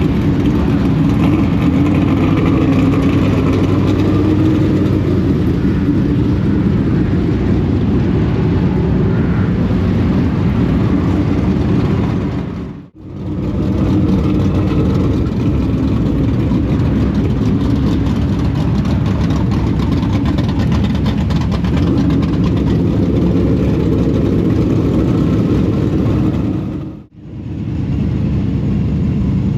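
Dirt late model race car's V8 engine running steadily. The sound drops out briefly twice, about 13 seconds and 27 seconds in.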